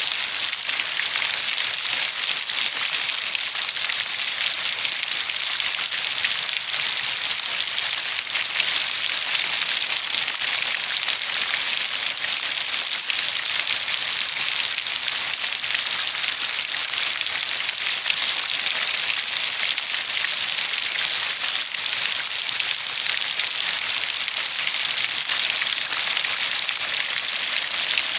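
Steady rain falling, a dense even hiss of many fine drops hitting a surface.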